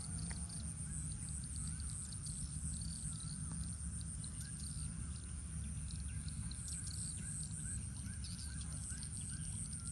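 Birds chirping outdoors: one repeats a short rising-and-falling note about twice a second while others add scattered high chirps, over a steady high hiss and a low rumble.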